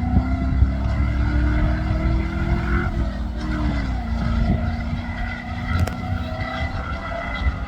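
Competition safari off-road vehicle's engine running hard under load, its pitch climbing for about three seconds and then dropping back, over a heavy rumble with scattered knocks and thumps.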